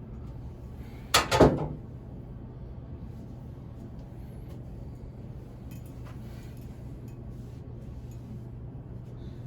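Hands working old thread-seal tape off a shower arm's threads, with one short, loud scraping rub about a second in over a steady low hum.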